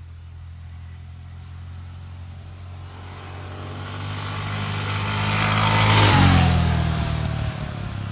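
Honda NX650 Dominator's single-cylinder engine running on its stock exhaust with a steady low note. A vehicle sound builds up, is loudest about six seconds in, then falls in pitch as it moves away, like a pass-by.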